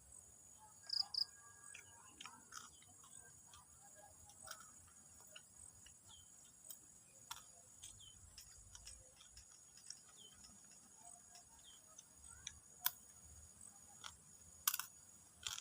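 Steady high-pitched chirring of crickets, faint, with scattered sharp clicks and small taps, a few louder ones near the middle and end.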